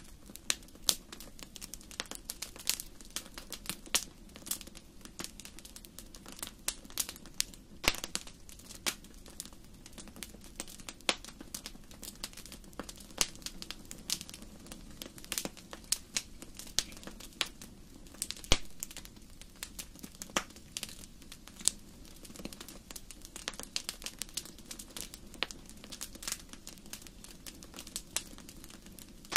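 Wood fire in a fireplace crackling: irregular sharp pops and snaps, some much louder than others, over a low steady rush of the flames.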